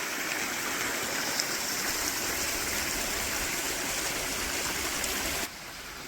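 Mountain stream water rushing steadily over rocks, then dropping abruptly to a softer rush near the end.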